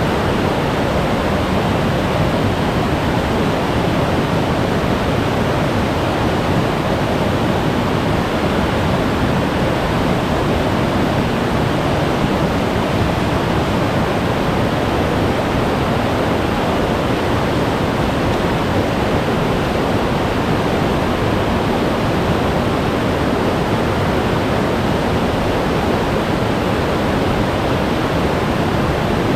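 Glacier-fed mountain stream rushing over rocks, a loud, steady roar of water that does not let up.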